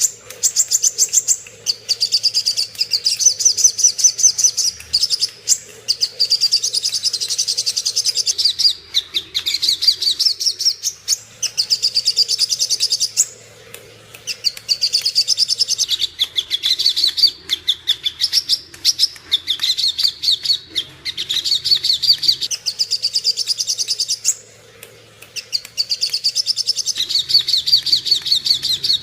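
Sogon bird singing its fighting (tarung) song: rapid, high chattering trills in phrases of a few seconds, broken by short pauses.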